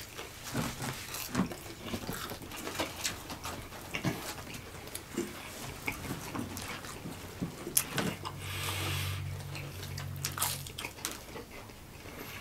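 People chewing chicken nuggets quickly, with many short, irregular wet mouth clicks. About eight seconds in, a low steady hum runs for roughly two and a half seconds.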